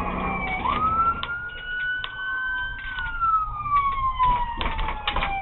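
Police car siren on a slow wail. It sweeps up quickly near the start, climbs slowly, then falls slowly over a few seconds before sweeping up again at the end. A few short clicks sound in the second half.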